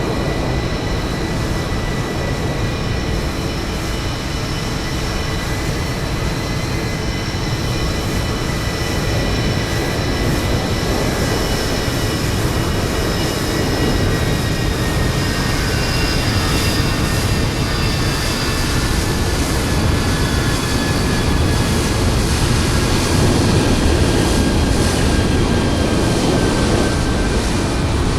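Jet aircraft noise on the apron: a steady rumble with several high whining tones that slowly sink in pitch, growing a little louder after the middle.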